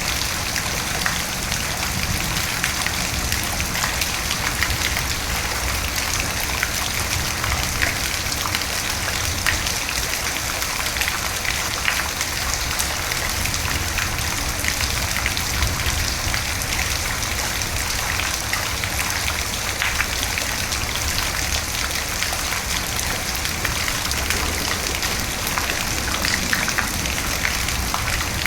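Steady rain falling, with many small drop impacts heard as fine ticks over an even hiss and a low, steady rumble underneath.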